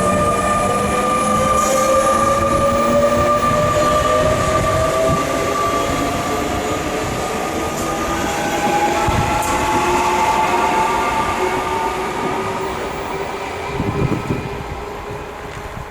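An electric train pulling away, its traction motors whining in several tones that climb slowly in pitch over the rumble of wheels on rail. The whole sound fades near the end.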